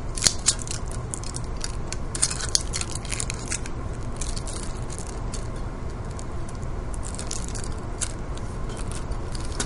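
Bicycle puncture-kit patches and their packaging being handled: scattered crinkling and clicking, thickest in the first few seconds and again near the end, over a steady low background rumble.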